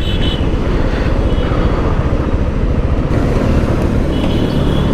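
Motorcycle on the move: steady engine and road noise under heavy wind rush on the rider's microphone, with faint high tones from traffic near the start and near the end.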